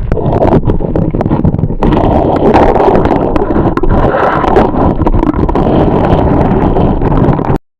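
Loud rushing water of a waterfall close to the microphone, with wind buffeting the mic; it cuts off abruptly near the end.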